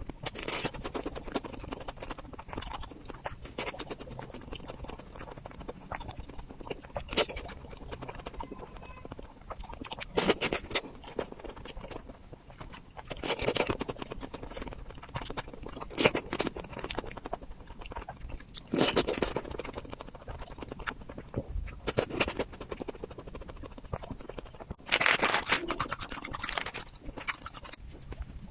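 Close-up mouth sounds of eating and drinking for ASMR: chewing and wet mouth noises that come in louder bursts every few seconds, with small clicks between them.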